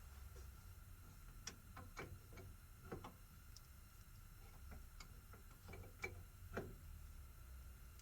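Faint, irregular light clicks and ticks, about a dozen scattered through, over a low steady hum.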